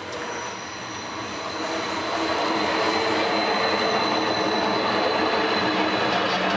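A Rhaetian Railway train running on the rails. Its noise grows louder over the first two seconds, then holds steady with a faint high whine.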